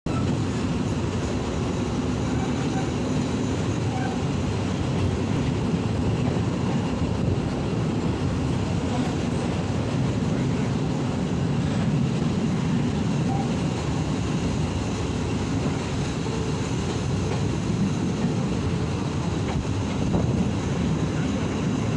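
Passenger train running along the track, heard from inside a carriage at an open window: a steady low rumble of wheels on rail.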